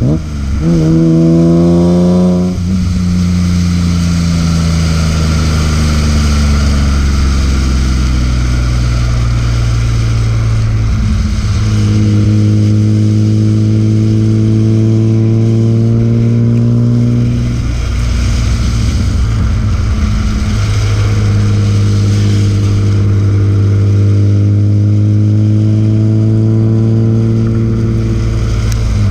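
BMW E36 M3's S50B30 straight-six engine pulling under load, its pitch climbing steadily and dropping suddenly at gear changes a couple of seconds in, around the middle and near the end.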